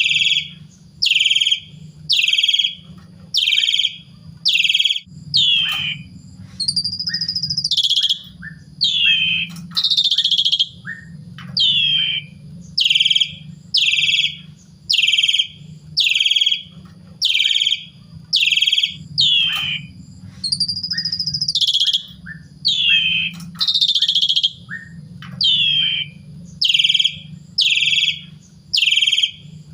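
Javan pied starling (jalak suren) calling loudly and repeatedly, about once a second. Each call is a short falling note, with a few longer rising whistles mixed in. A low steady hum runs underneath.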